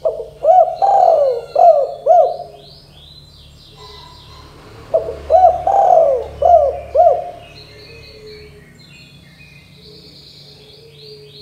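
Spotted dove (tekukur) cooing: two phrases of about five low, bending coo notes each, the second starting about five seconds in. Faint high chirps of small birds run underneath.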